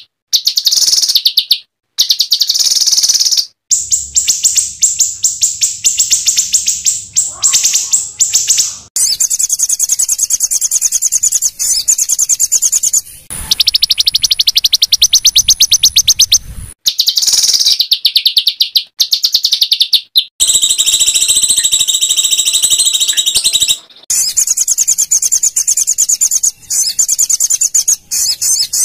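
Songbird song played as a masteran training recording: loud, high-pitched, rapid harsh trills and rattles in bursts of a few seconds each, cutting abruptly from one phrase to the next.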